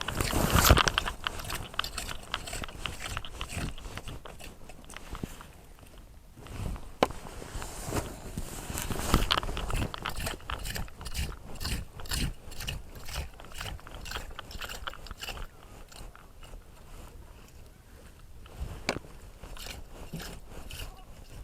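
Clam rake scraping and crunching through wet sand and shells in many irregular strokes, loudest in the first second.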